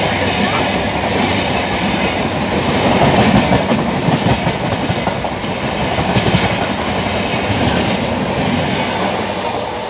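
Express train of LHB passenger coaches passing close by at speed: a steady rush of wheel and rail noise with wheels clattering over the rail joints. The sound eases slightly near the end as the last coaches go by.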